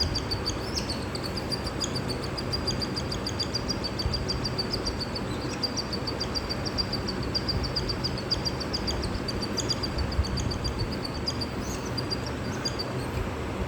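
Cockatiel chick's food-begging calls during hand feeding: a fast, even run of short high chirps, several a second, stopping shortly before the end, over a steady low background rumble.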